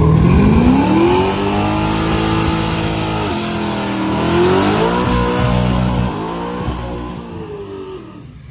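A car engine revving and accelerating hard. Its pitch climbs, dips about three seconds in, climbs again, and then the sound fades away near the end.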